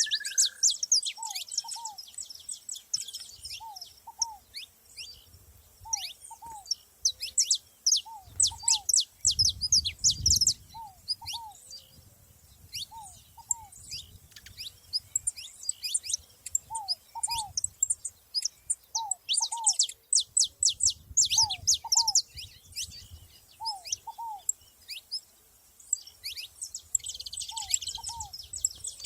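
Saffron finches (canário-da-terra) giving rapid, high chirping calls and song. Behind them a lower two-note call repeats about every two seconds.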